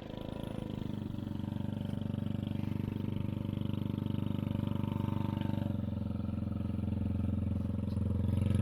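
Small 110cc engine of a kids' car running steadily, a little louder near the end.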